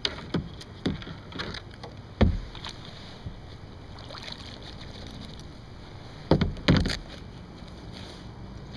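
Dull knocks and thumps against a kayak's hull, a few early on and a loud pair about two-thirds of the way through, over a steady low rumble.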